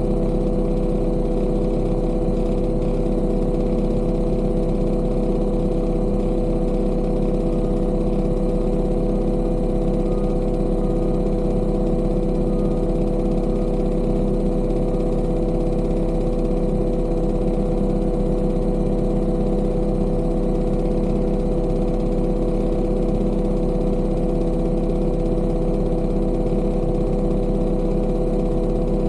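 Engine of a piece of heavy construction machinery running steadily at a constant speed.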